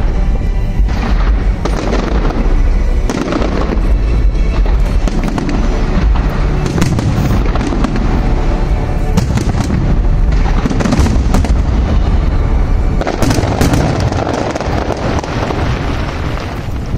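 Fireworks display going off continuously: a dense run of bursts and crackling bangs over a heavy, deep rumble of booms, with music playing along.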